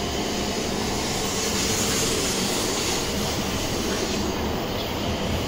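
Shinkansen train moving along the station platform: a steady rumble of the train running, with a high hiss that swells about two seconds in.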